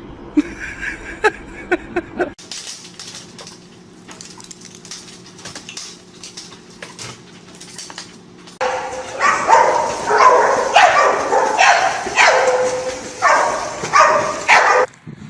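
A dog vocalising: a loud run of about eight short calls, each bending in pitch, in the second half. Before it come a few sharp clicks and a quieter stretch.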